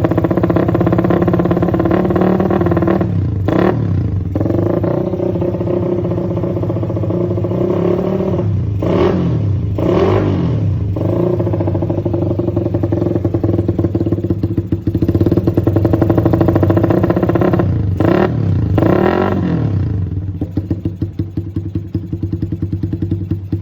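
Suzuki Satria FU (carburettor model) single-cylinder four-stroke engine running through an RMS aftermarket racing exhaust, held at a raised idle with several short throttle blips whose pitch rises and falls each time. Near the end it settles to a slower, pulsing idle.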